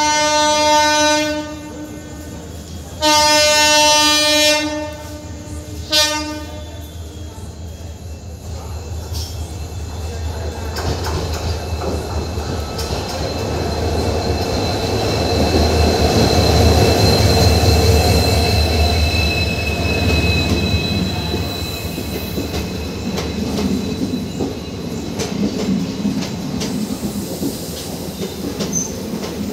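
EMD WDP4D diesel-electric locomotive sounding its horn three times, two long blasts and then a short one. The locomotive then runs past with its two-stroke diesel engine rumbling and a thin wheel squeal, and the coaches follow, clattering over the rail joints.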